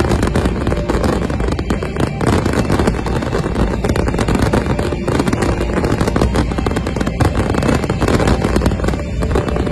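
Fireworks barrage: a continuous, rapid run of bangs and crackles from many shells bursting at once, over a heavy low rumble.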